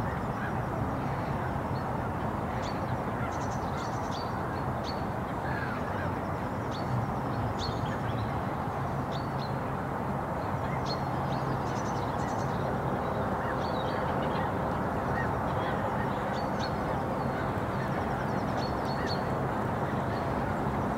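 Birds calling in short, sharp chirps every second or so over a steady low background rumble.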